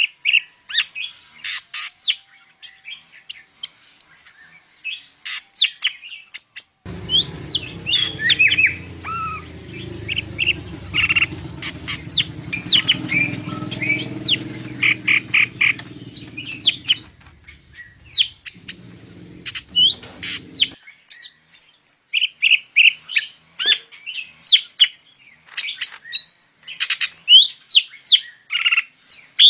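Green leafbird (cucak ijo) singing a rapid, varied song of high chirps and whistles. A low background rumble sits under the song from about a quarter of the way in until about two-thirds through.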